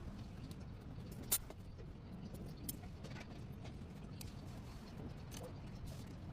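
Car running with a steady low rumble and a few sharp, irregular clicks, the loudest about a second in.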